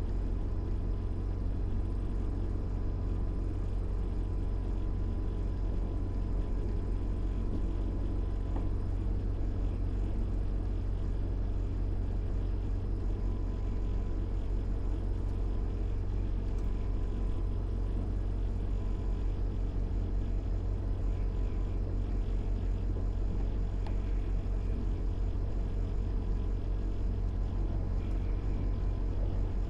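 Diamond DA20's engine and propeller running steadily at low power after landing, a constant drone heard inside the cockpit with a faint steady tone over it.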